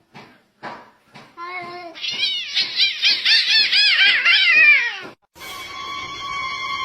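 A cat meowing: short separate meows at first, then a fast run of higher-pitched meows, about four a second, for some three seconds. Music with steady held notes comes in near the end.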